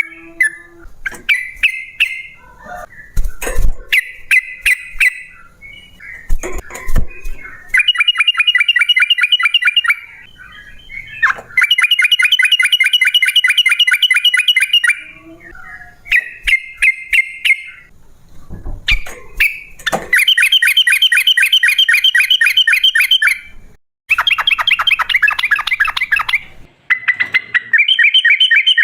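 Yellow-vented bulbul singing: short bubbly chirps, then several long, fast rattling trills of evenly repeated notes, each a few seconds long. Sharp clicks and low thumps come in the first few seconds.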